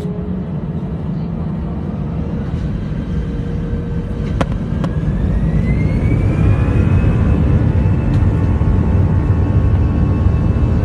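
Aircraft engines running with a steady rumble, a whine climbing in pitch from about four seconds in as the sound grows louder, like engines spooling up or a plane drawing closer. Two short clicks just after four seconds.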